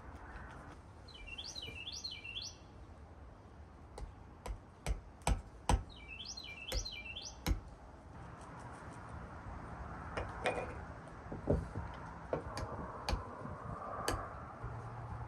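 A songbird sings two short phrases of quick, repeated high notes, about a second in and again around five and a half seconds in. Against a low background hum, a run of sharp taps falls in the middle, followed by scattered lighter clicks: small objects knocking on a work surface.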